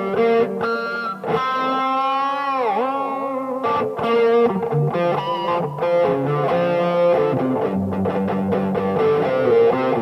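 Yamaha STH 500R electric guitar played with light distortion: picked notes and chords, with a held chord about three seconds in whose pitch dips down and comes back up, then more quick picked notes.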